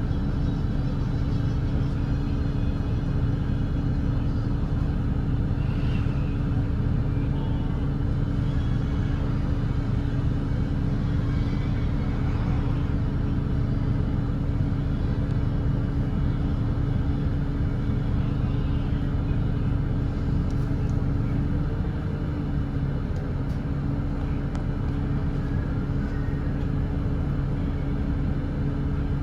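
Volvo B8RLE double-decker diesel bus engine running steadily at expressway cruising speed: an even drone that holds one pitch, easing slightly about three-quarters of the way through.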